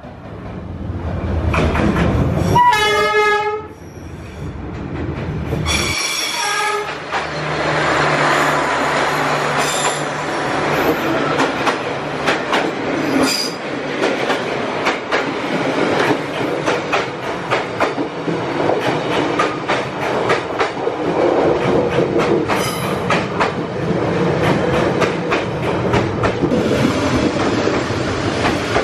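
Diesel passenger train coming down a narrow street: the locomotive sounds its horn about three seconds in and again, more briefly, about six seconds in, then the carriages roll past at close range with a steady rumble and rapid clacking of the wheels over the rails.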